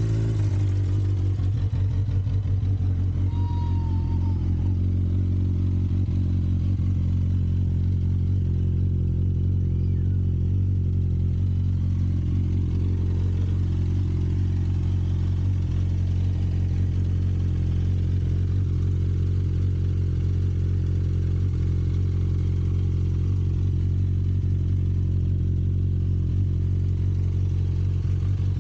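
Suzuki GSX650F inline-four engine with a Yoshimura exhaust idling steadily right after a cold start.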